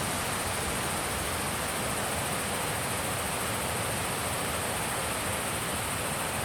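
Steady wind blowing, an even rushing noise without gusts, with a steady high hiss above it.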